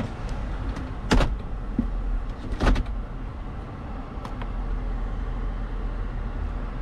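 Toyota 4Runner's 4.0-litre V6 idling, a steady low hum heard inside the cabin, with two sharp clicks about one and three seconds in.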